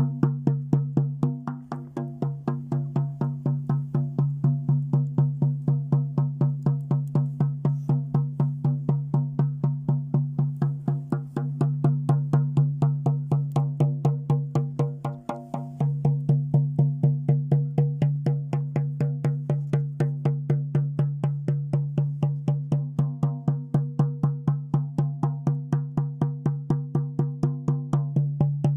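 Shaman's frame drum beaten in a fast, even rhythm, its strokes blending into a steady low ringing tone, with two brief falters in the beat.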